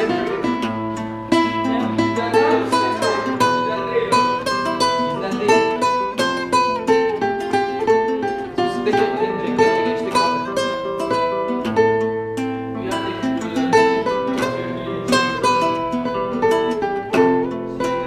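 A plucked string instrument playing an improvised melody, quick single notes picked one after another.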